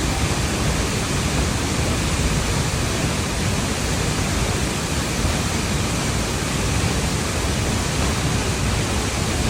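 Waterfall rushing steadily: an even, unbroken noise of falling water with a deep rumble underneath.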